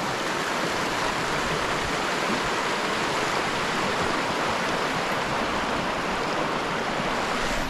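Steady rush of flowing water from a creek or falls, an even hiss with no breaks.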